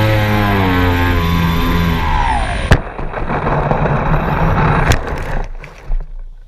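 Quadcopter drone's electric motors and propellers whining, the pitch wavering up and down, then dropping about two seconds in. A sharp click follows, then a rushing noise, a second click, and the sound fades away.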